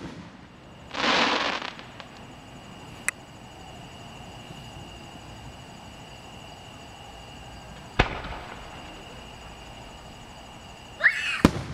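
Aerial fireworks: a short hissing crackle about a second in, a single sharp bang with a trailing echo about eight seconds in, and near the end a brief whistle followed by two quick sharp bangs.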